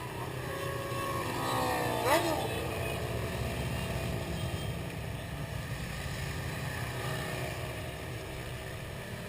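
Many motorcycle engines running together in a steady low rumble, with a brief sharp sound about two seconds in.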